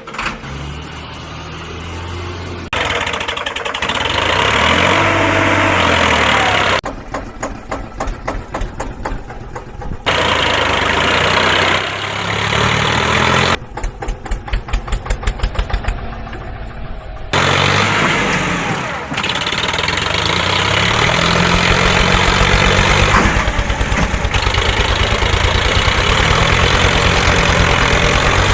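Vehicle engine sounds in abruptly cut segments: an engine running with rising and falling revs, alternating with stretches of a rapid, even idling chug.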